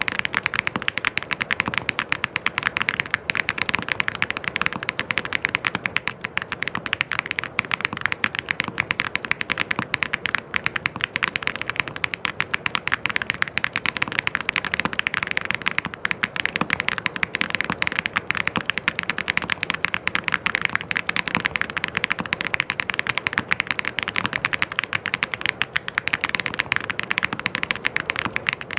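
Fast, continuous typing on a mechanical keyboard, the keystrokes clacking in a dense, unbroken stream without pauses.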